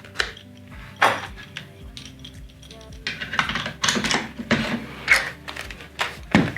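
Small hard clicks and light clattering as AA batteries are handled and pushed into the plastic battery compartment of a toy sewing machine, sparse at first and then a busy run of clicks in the second half, over background music.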